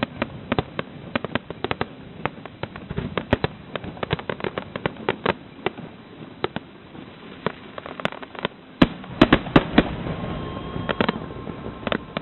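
Fireworks display finale: a rapid barrage of shell bursts and crackling, with a cluster of louder bangs about nine seconds in.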